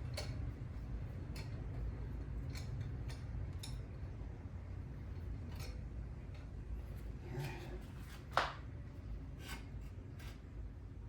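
Scattered light clicks and taps of tools or parts being handled, with one sharper clack about eight seconds in, over a steady low hum.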